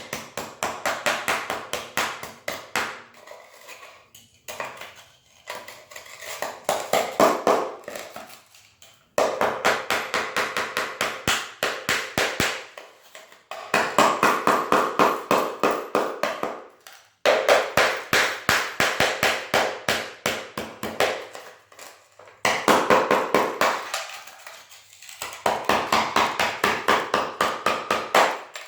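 Hammer striking a chisel against a broken ceramic floor tile and its bed, chipping it out: rapid light taps in runs of a few seconds with short pauses between.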